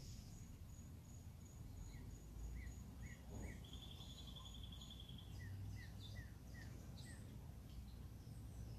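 Wild birds singing: two runs of short down-slurred whistled notes, a fast trill about the middle, and a thin high note repeating a few times a second in the first half, over a steady low rumble.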